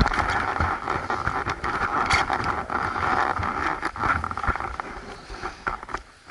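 Motorcycle riding noise: engine rumble mixed with wind buffeting the microphone and knocks from the rough track, easing off near the end.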